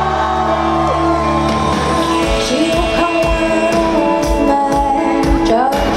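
Live pop band music with a woman singing long, bending notes and the crowd shouting; a steady drum beat comes in about two seconds in.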